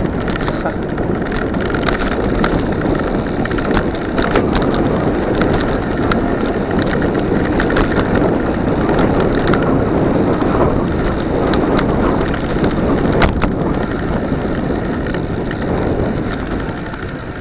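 Steady rushing noise of riding a bicycle in traffic, heard on a helmet camera, with scattered sharp taps of rain hitting the helmet.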